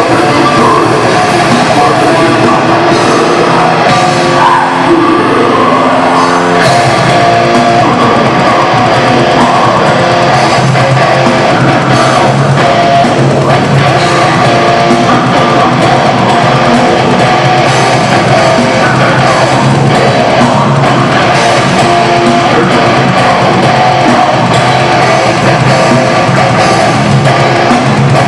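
Heavy metal band playing live, loud and dense, with distorted guitars and a drum kit; the low end changes about six seconds in.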